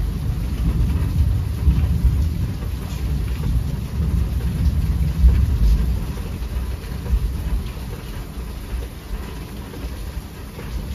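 Rolling thunder over steady rain: a deep rumble comes in suddenly at the start, swells over the first few seconds and slowly dies away, while the rain hiss goes on underneath.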